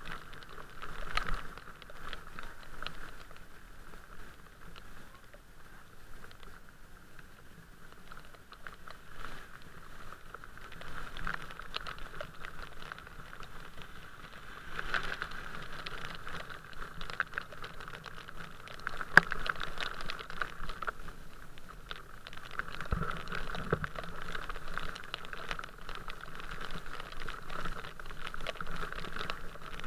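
Rain pattering, with many small irregular taps of drops landing close by and one sharper tap about two-thirds of the way through.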